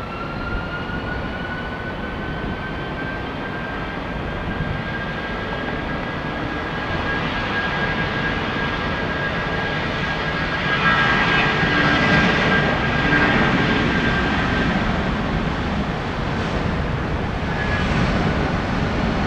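Boeing 757-200 jet engines at takeoff power. A whine rises in pitch at the start and then holds steady over a rumble that grows louder as the airliner comes past.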